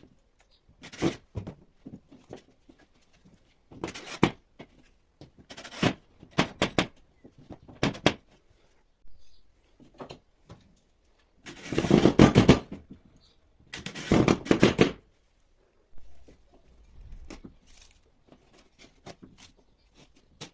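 Hand tools working on a plasterboard wall: scattered short knocks and scrapes, with two longer, louder scraping passes around the middle.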